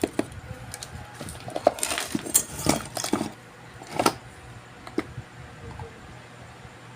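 Small metal tools and parts clicking and clattering as they are handled during an electronics board repair, busiest for a couple of seconds in the middle, with a few single clicks after.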